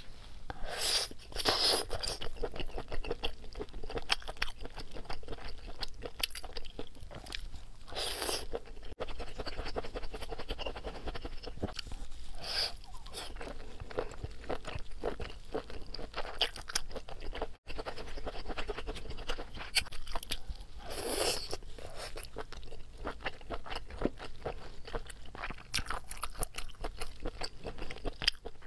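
Close-miked chewing and biting of cooked baby octopus: a dense run of small clicks, with a few louder bites now and then.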